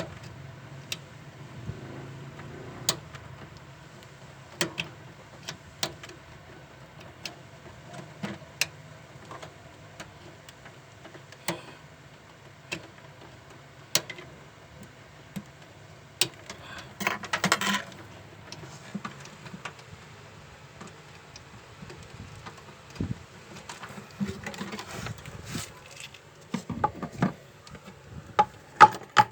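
Scattered sharp clicks and light clatter of small computer parts being handled, with a denser rattle about seventeen seconds in. A low hum fades out in the first couple of seconds.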